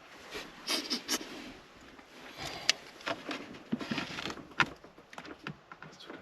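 Handling noise from small car parts and tools being fitted back by hand: irregular sharp clicks and taps with short bursts of rustling.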